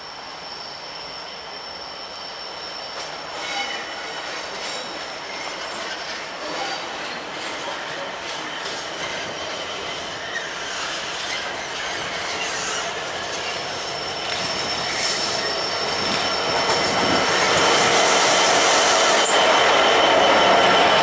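A train approaching, growing steadily louder, with a high-pitched squeal from its wheels on the rails.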